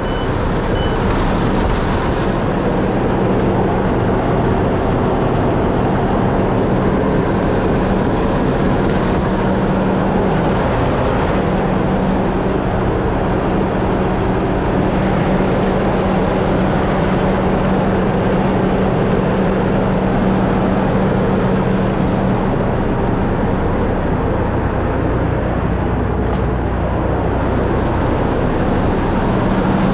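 Semi-truck diesel engine running at a steady idle, a constant low hum.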